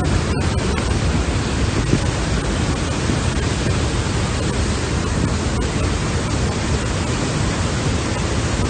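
Heavy rain pouring in a steady, dense hiss.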